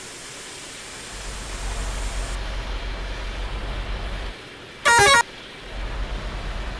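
A low vehicle rumble, with one short, loud horn honk about five seconds in.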